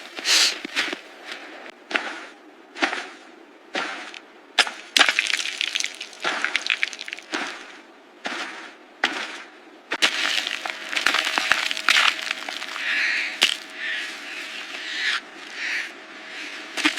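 Repeated crunching and cracking noises, about one a second at first and coming thicker and more continuous from about halfway through, with a faint steady tone underneath in the second half.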